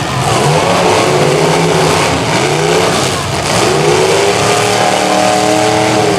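Several demolition derby cars' engines revving at once, their pitch repeatedly rising and falling over a steady low engine drone.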